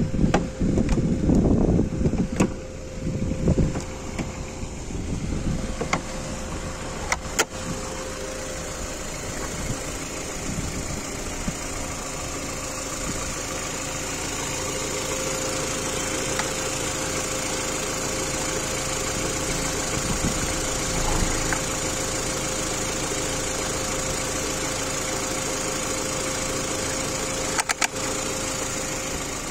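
Mini Cooper R50's four-cylinder petrol engine idling steadily, heard with the bonnet open. There are bursts of low rumble in the first few seconds and a short clatter near the end.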